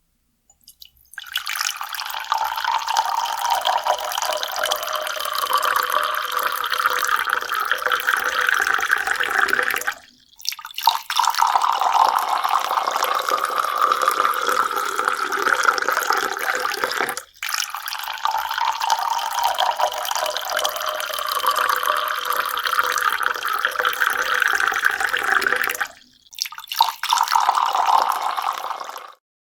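Running water, a steady splashing stream that stops briefly three times.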